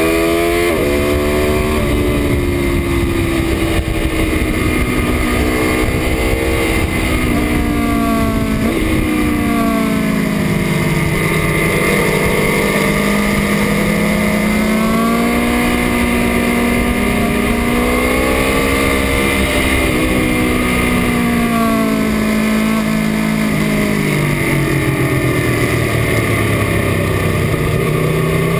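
Aprilia Tuono V4 1100 RR's V4 engine at full song, rising and falling in pitch as the revs climb hard and drop back again and again, with wind rush over the microphone. The lowest revs come in two long dips, around ten to twelve seconds in and again past twenty seconds, before the engine pulls up once more near the end.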